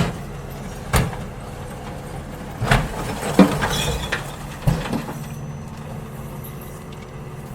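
Garbage truck emptying bins: its engine runs steadily under a run of sharp bangs and clatter in the first five seconds, then the engine runs on alone.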